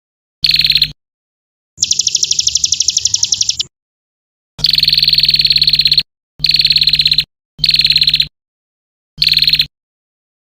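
A songbird-training 'isian' recording of a rapid, buzzy pulsed trill played six times, each cut off sharply into dead silence. The second trill, about two seconds in, is higher-pitched and lasts about two seconds; the others are shorter and lower.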